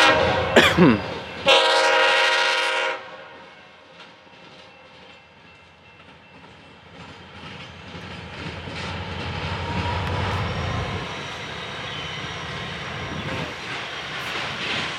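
Diesel freight locomotives passing, led by a horn: two loud horn blasts, a short one that ends about a second in and a longer one lasting about a second and a half. After a brief lull the locomotives' engines and wheels rumble past, growing louder from about seven seconds in and holding steady.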